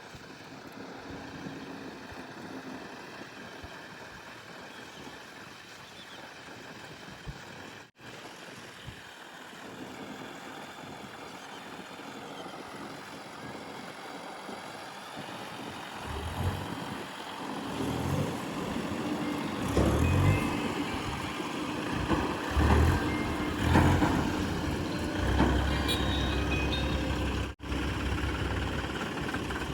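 Heavy diesel machinery running, a backhoe loader and tipper trucks working a mud-loading site. It is a steady hum at first; about halfway through the engines get louder and labour in surges, with several loud heavy peaks.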